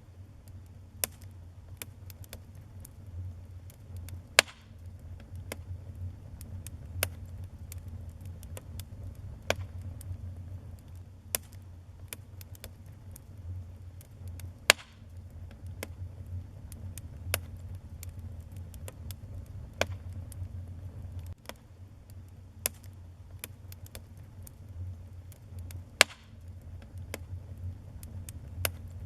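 Wood fire burning in a fireplace, crackling with frequent small pops and a few sharp louder snaps, over a steady low rumble.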